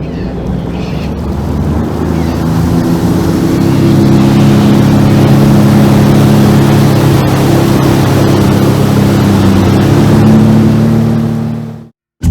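Sea-Doo Fish Pro jet ski engine picking up speed over the first few seconds, then running steadily at speed, with water and wind rushing. It cuts off abruptly near the end.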